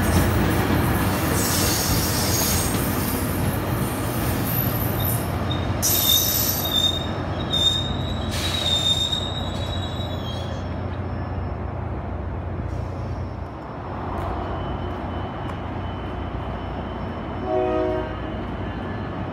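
Tri-Rail double-deck commuter train rolling past with a steady rumble. Its wheels squeal in a thin high tone from about a quarter of the way in to the middle, then the sound eases. A brief horn toot comes near the end.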